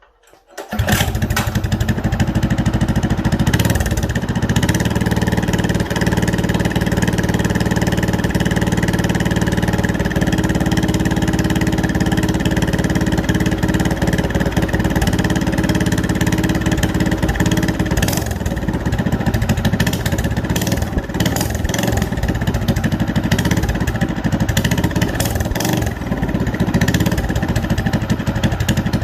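EC Carburetors Wild Cat 222cc single-cylinder four-stroke minibike engine, breathing through a 1-inch header and open silencer, starts about half a second in and then runs loud at a steady speed.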